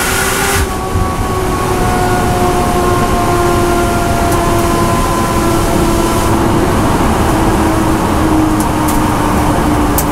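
A BMW M240i race car's turbocharged straight-six, heard inside the cockpit, runs at full throttle in fourth gear. About half a second in the throttle is lifted: the hard edge of the sound drops away suddenly. The engine note then falls slowly as the revs drop off throttle, with a few sharp clicks later on.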